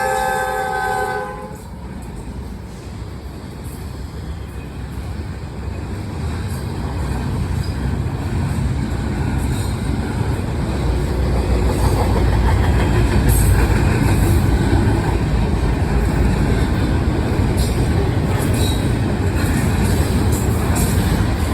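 Norfolk Southern diesel locomotive's multi-note chord horn ending about a second in, then the rumble of the train passing, building louder and staying loud, with scattered clicks of the wheels over the rail.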